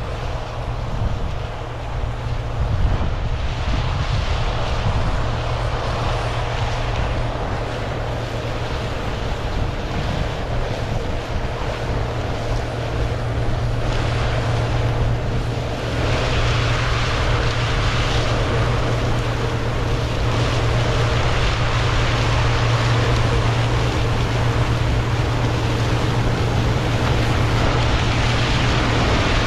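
Heavy diesel farm machinery running steadily, a low engine drone with wind noise on the microphone; it gets louder and rougher about 16 seconds in.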